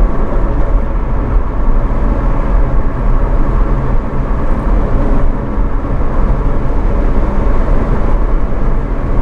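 Steady engine and road rumble of a manual car being driven, heard from inside the cabin.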